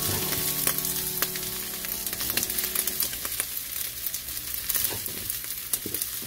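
Spam fried rice sizzling in a frying pan on the heat, while a metal spoon scrapes and scoops the rice, with scattered clicks of the spoon against the pan.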